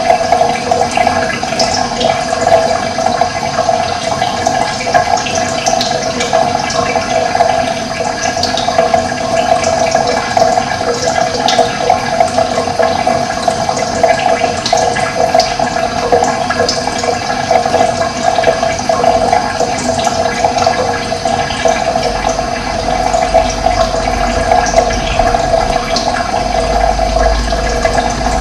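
Running water, steady and unbroken, with small birds chirping faintly and sparsely above it.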